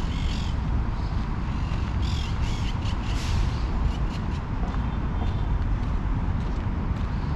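Birds calling several times, just after the start and again around two and three seconds in, over a steady low rumble.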